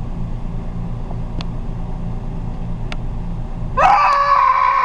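A vehicle engine running with a steady low rumble, heard from inside. About four seconds in, a loud, high held tone with a short upward slide at its start comes in over it.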